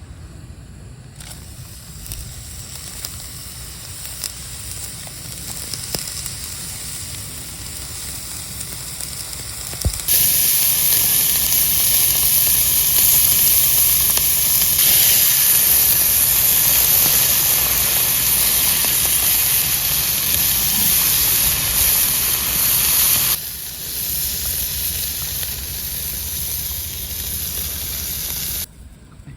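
Butane camp stove grilling food: a steady hiss and sizzle that starts faintly, jumps suddenly to loud about a third of the way in, drops back about four-fifths of the way through, and cuts off just before the end.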